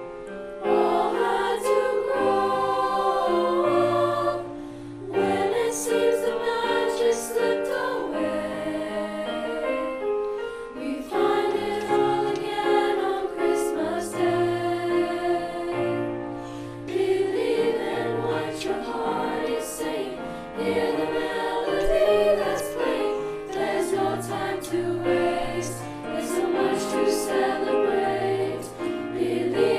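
A choir singing a piece of music, with held sung notes throughout.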